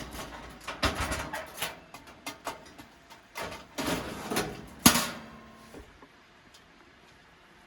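Clicks, knocks and rustling of gear being handled, with a sharp knock about five seconds in; the handling stops about six seconds in.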